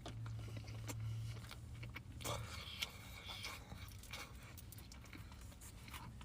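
A person biting and chewing pizza close to the microphone, with scattered crunches and wet mouth sounds.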